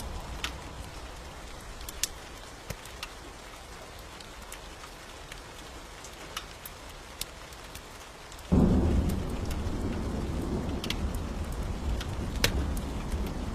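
Steady rain with scattered sharp ticks. About eight seconds in, a loud rumble of thunder breaks in suddenly and keeps rolling.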